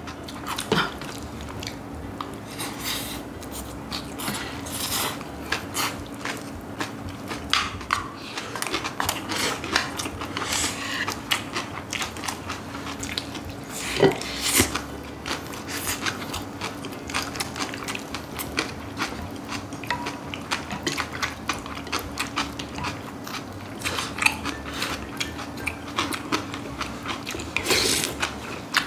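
Close-up chewing and crunching of bibimbap made with raw, crisp young radish greens (yeolmu), with spoons clinking and scraping against the bowls and pan. A steady low hum runs underneath.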